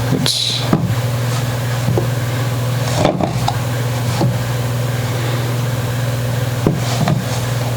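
A steady low hum runs throughout, with a few light clicks and knocks from hands working on a guitar.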